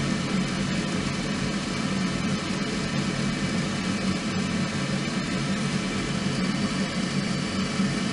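Small wood fire burning in a compact fire stand: a steady low rushing of the flames with a few faint crackles.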